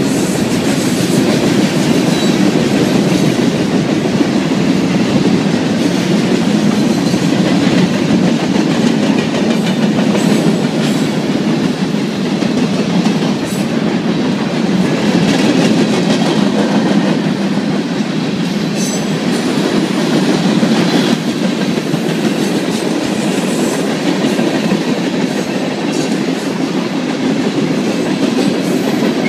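Freight train's cars rolling past at speed: a steady, loud rumble of steel wheels on rail with the clickety-clack of wheels over rail joints.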